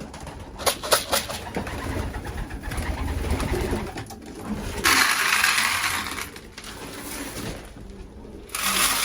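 Racing pigeons cooing in a loft. There are a few sharp clicks about a second in, and two louder bursts of rushing noise, one about five seconds in and one near the end.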